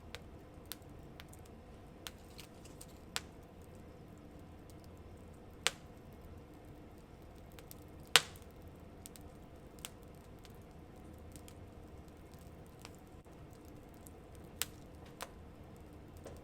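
Wood fire crackling: scattered sharp pops and snaps at irregular intervals over a low steady hiss, the loudest pop about eight seconds in.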